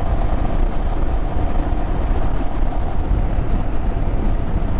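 Adventure motorcycle riding at a steady speed: a heavy wind rumble on the rider's microphone over a steady engine tone, which drops slightly near the end.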